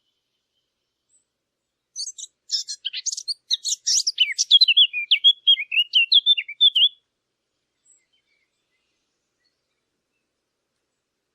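A small songbird sings one song of about five seconds, starting about two seconds in. It opens with a rapid run of high, sharp notes and ends in lower, quicker warbling notes.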